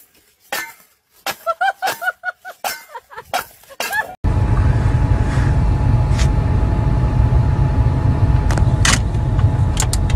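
A car engine running, heard from inside the cabin as a steady low rumble with a faint steady tone and a few light clicks. It cuts in abruptly about four seconds in, after a short spell of knocks and brief squeaky sounds.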